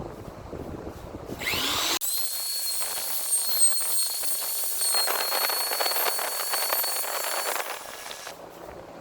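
Small high-speed electric woodworking tool spinning up with a rising whine about a second and a half in. It runs at a steady high pitch with rough cutting noise for about five and a half seconds, then winds down and stops near the end.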